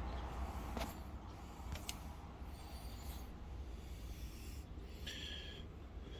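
A few faint clicks and handling sounds over a low steady rumble, with brief higher-pitched patches near the middle and toward the end.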